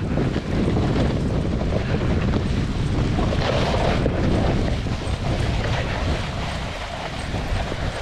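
Snowboard sliding and scraping along a snowy road while being towed, under constant wind rush on the microphone.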